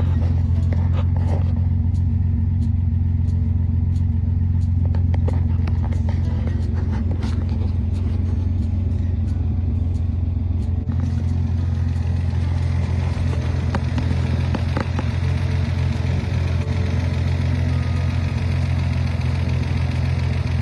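Car engine running steadily at idle, with a few sharp clicks over it.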